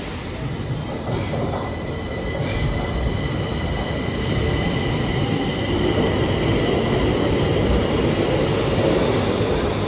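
Stockholm Metro train running with a rumble that grows louder, several steady high-pitched tones ringing above it, and a few sharp clicks near the end.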